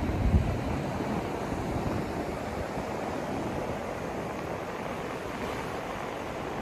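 Steady rushing noise from a white-noise sleep track, heavier in the low and middle range than in the treble. A deeper low rumble fades out within the first half second, and the noise then holds even.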